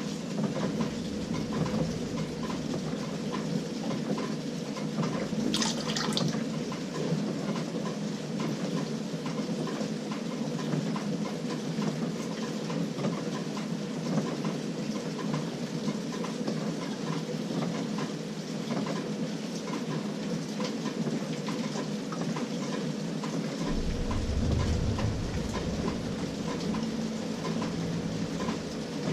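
LG 18 kg top-load washing machine running a delicate cycle: water sloshing and churning in the drum over a steady motor hum. A brief high hiss comes about six seconds in, and a low rumble for about a second later on.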